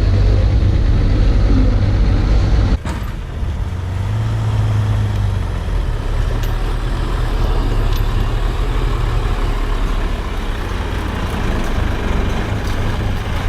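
Heavy vehicle engine running steadily, with an abrupt drop in level about three seconds in.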